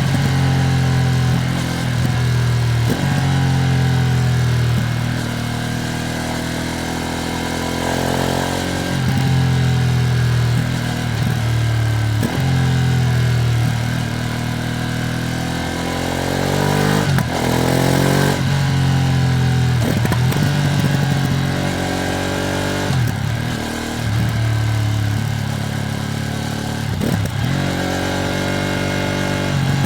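Ducati Streetfighter V2S 90-degree V-twin under way, revving up and dropping back again and again as the rider accelerates and shifts through the gears.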